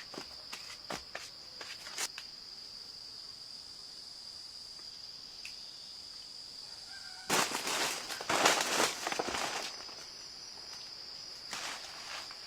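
Insects trilling in one steady high-pitched tone, with a few sharp clicks in the first couple of seconds and a louder spell of rustling noise lasting about two and a half seconds past the middle.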